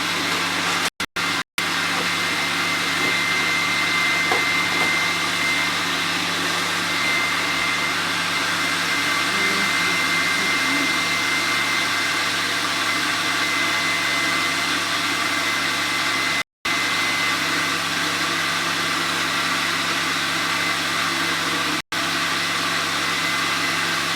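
Countertop blender running steadily at speed as it mixes a protein shake, a continuous motor whir with a faint high whine. The sound drops out completely for split seconds a few times.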